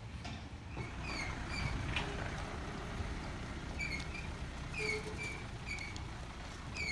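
Low steady rumble of a running vehicle engine, with short, slightly falling high chirps repeated at irregular intervals over it.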